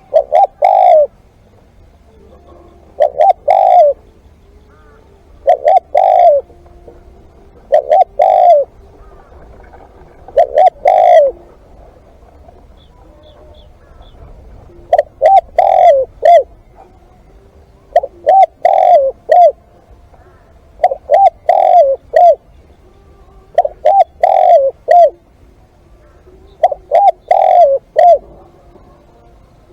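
Spotted dove cooing: short phrases of three or four coo notes, repeated about every two and a half seconds.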